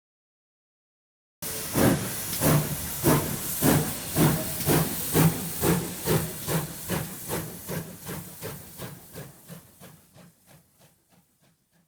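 Steam locomotive chuffing, a hiss pulsing about twice a second, starting suddenly and fading away as the train pulls off.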